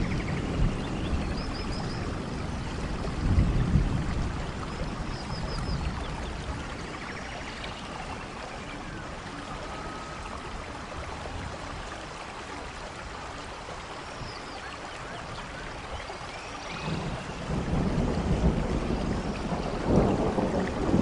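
Steady rainforest rain with thunder rumbling low, swelling a few seconds in and again near the end. A few faint high chirps sound over the rain.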